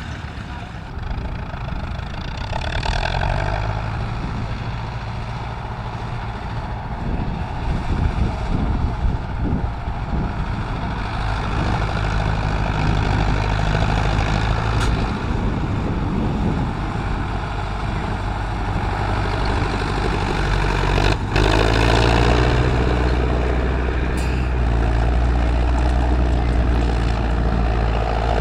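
Tractor engines running steadily, the sound growing louder from about halfway through.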